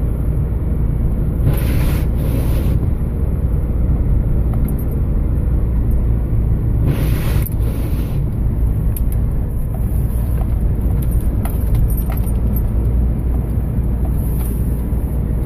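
GMC Envoy in four-wheel-drive low, driving through snow and slush: a steady low engine and road rumble heard from inside the cabin. Two pairs of short hissing swishes come about a second and a half in and again about seven seconds in.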